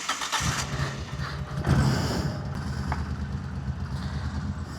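Motorcycle engine starting: a short burst from the starter, the engine catching about half a second in, a brief rev about two seconds in, then steady idling.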